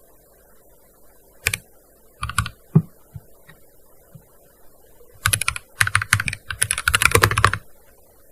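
Typing on a gaming keyboard: a single keystroke, then a short flurry of a few keys, a pause, and a rapid run of keystrokes lasting about two seconds near the end.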